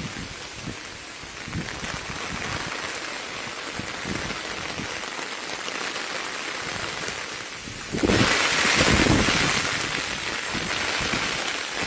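Rain falling steadily, a constant hiss with scattered heavier drops knocking on a surface. About eight seconds in it suddenly gets louder and fuller.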